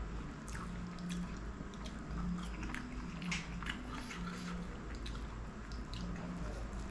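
Close-miked chewing of a mouthful of dosa and curried chicken, with wet smacking clicks from the mouth throughout.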